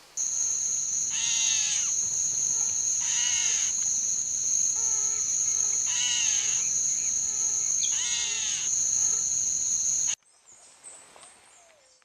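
A bird calling four times, about two seconds apart, each call a short, rough note over a steady high-pitched buzz. The sound cuts off abruptly near the end.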